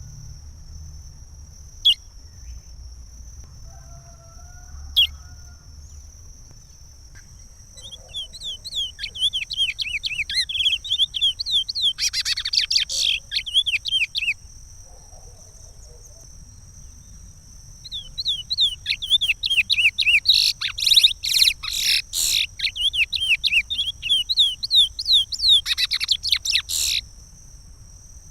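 Curió (chestnut-bellied seed finch) singing the Pará regional song: a few single chirps, then two long phrases of rapid, repeated, down-slurred whistled notes with a pause between them.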